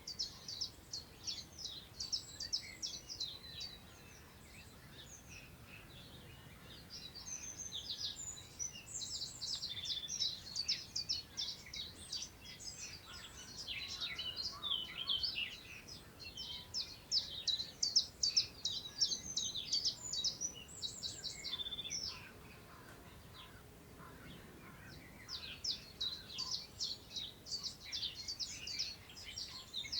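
Several songbirds singing in rapid, high chirping phrases, in bouts that ease off briefly about four seconds in and again about two-thirds of the way through. A faint rustle of wind through long grass sits underneath.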